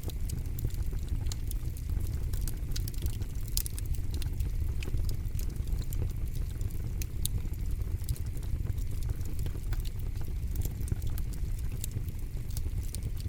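Campfire crackling, with frequent sharp irregular pops over a steady low rumble.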